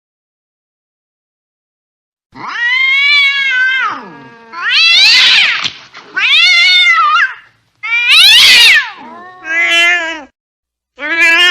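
Angry cat yowling: about six long, drawn-out calls that start a couple of seconds in, rising and falling in pitch, two of them harsher and screechier than the rest.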